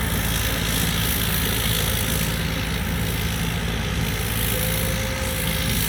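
Combine harvester running steadily, its diesel engine a constant drone under a broad mechanical hiss.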